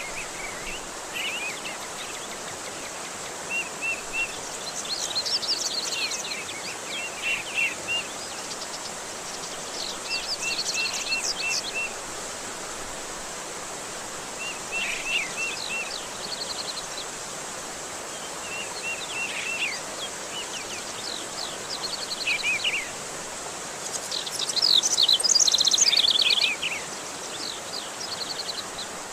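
Steady rush of running water with songbirds chirping and trilling over it in short bouts, the loudest burst of song near the end.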